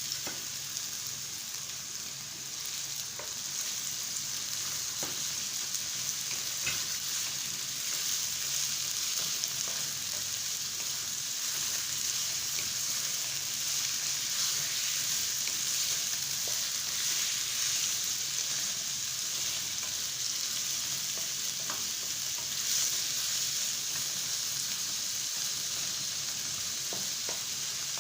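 Boneless chicken sizzling steadily in a hot pan, with a few faint clicks from stirring.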